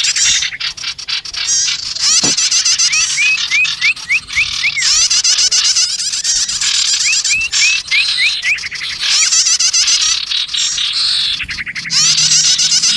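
Bird-lure recording of small songbirds, sirtu mixed with bar-winged prinia (prenjak tamu) calls: dense high chattering broken by rapid clicking trills. Three times, a series of five or six quick upslurred whistled notes repeats, as in a loop.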